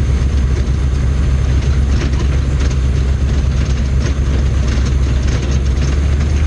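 1990 M998 Humvee's diesel V8 running steadily at low speed, a constant low drone heard from inside the cab, with faint irregular ticks and rattles over it.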